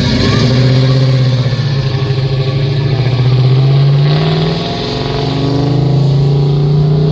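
A car engine accelerating as the car drives away: its note rises steadily, drops about four and a half seconds in as it shifts up a gear, then rises again.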